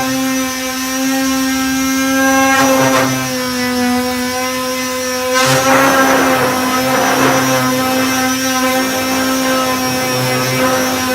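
Electric disc sander with a 240-grit disc sanding body filler, its motor running at a steady whine. A rougher scratching noise swells in as the disc is pressed onto the surface, briefly about three seconds in and for a couple of seconds around the middle.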